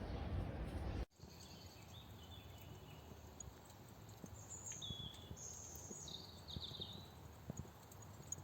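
A second of dense, low-heavy noise cuts off abruptly about a second in. After it, faint bird chirps sound a few times over quiet outdoor background.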